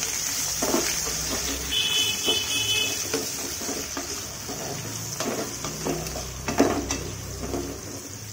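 Pumpkin pieces sizzling steadily in hot mustard oil while a spatula stirs them around the pan, with repeated scrapes and knocks of the spatula on the pan, the loudest about two thirds of the way through. A brief high tone sounds about two seconds in.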